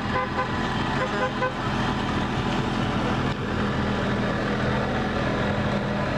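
Vehicle horn giving several short quick toots at the start and again about a second in, over a steady low engine hum.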